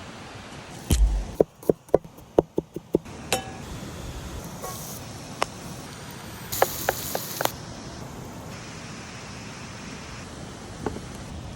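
A quick run of sharp clicks and knocks, led by a heavier thump about a second in, then a few more clicks around the middle and one near the end, over a steady hiss of outdoor background noise.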